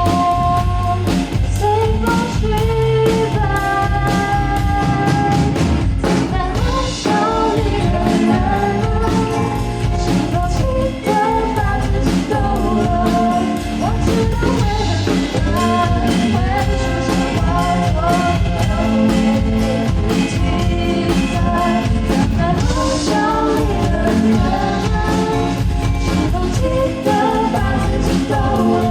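Pop-rock song: a singer's voice over a band, with a drum kit keeping a steady beat.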